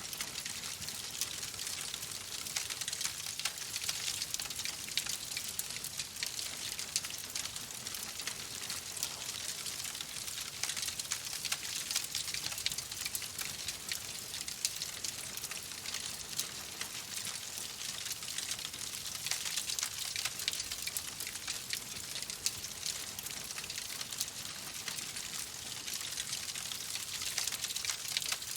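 Wood fire crackling in a fireplace: a steady hiss thick with small pops and snaps.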